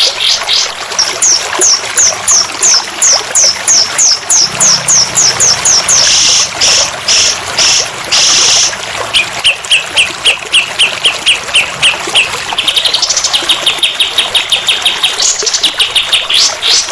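Recorded tutor birdsong for training a caged songbird: rapid runs of sharp repeated chirps, several a second, broken in the middle by a few longer harsh buzzing notes and followed by a lower run of notes, over a steady trickle of water.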